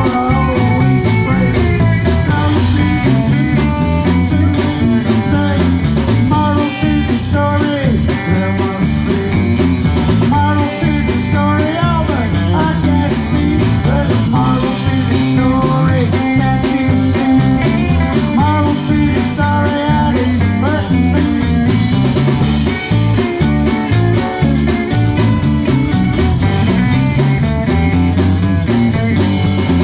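Live rock band playing loud and continuously: electric guitar, sometimes bending notes, over bass guitar and a drum kit.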